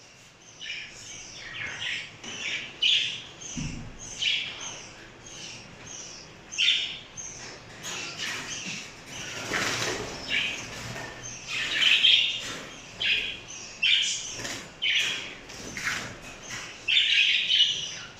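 A flock of caged pet parrots calling over and over in short, sharp chirps, about one or two a second, with some flapping and rustling mixed in.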